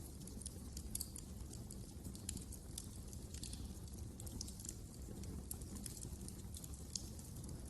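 Wood fire crackling in a fireplace: many quick, irregular sharp pops and snaps over a steady low rumble of the flames.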